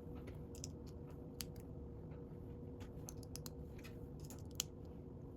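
Faint clicks and taps of small plastic Lego pieces being handled and pressed together, scattered irregularly and bunching up around the middle and near the end, over a steady low hum.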